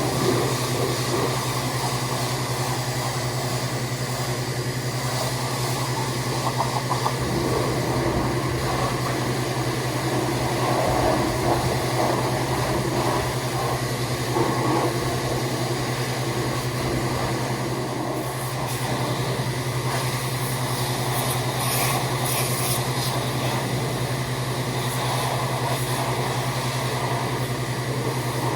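Pressure washer running steadily while spraying down a greasy truck chassis: a constant low motor hum under a steady hiss of spray.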